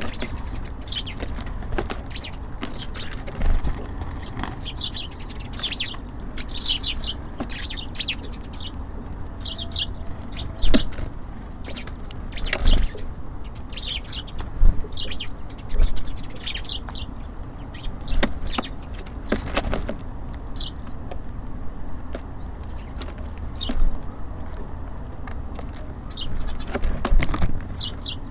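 Small songbirds at a feeder giving short, high chirps again and again, with scattered sharp knocks and thumps among them.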